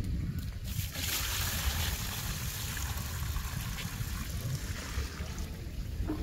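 Water running from a garden hose, a steady hiss that starts just under a second in and fades near the end, over a low rumble of wind on the microphone.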